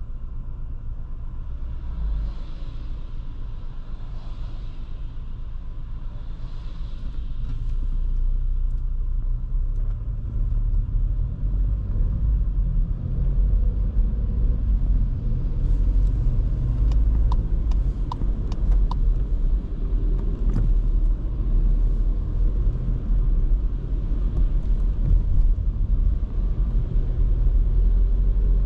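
In-cabin road and engine rumble of a 2023 Skoda Kamiq 1.0 TSI on the move. The rumble grows louder from about eight seconds in. A few sharp ticks come in around the middle.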